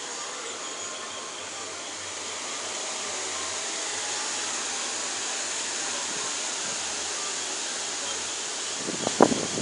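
Steady hiss of heavy rain in a storm. Near the end a short, much louder burst of sound breaks in.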